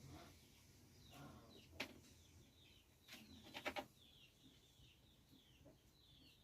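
Faint, short high chirps of small birds, repeated many times, mostly in the second half. There is a sharp tap about two seconds in and a quick run of three taps a little later.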